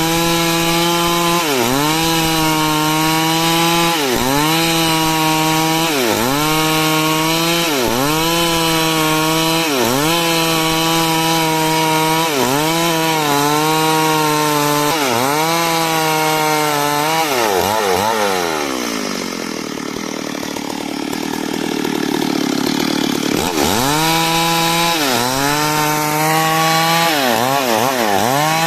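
Two-stroke chainsaw cutting wood at high revs, its pitch dipping and recovering about every second and a half as the chain bites into the cut. After about 17 seconds the engine slows for a few seconds, then climbs back up to speed and the cycle of dips resumes.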